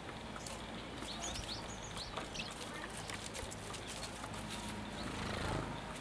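Small birds chirping: a quick run of short high chirps about a second in and a couple more near two seconds, over scattered light clicks.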